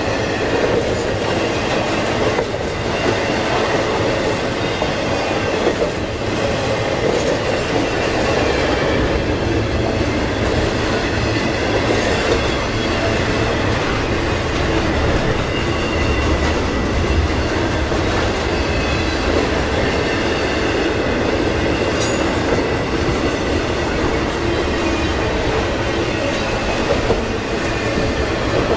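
Intermodal freight train's cars rolling past: a steady rumble of steel wheels on rail, with a few sharp clicks and a faint, thin wheel squeal at times.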